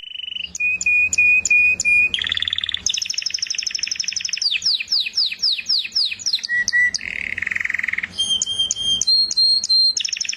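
A songbird singing a long, varied song of clear whistled phrases: runs of repeated short notes, fast trills and a quick series of down-slurred notes, switching phrase every second or two.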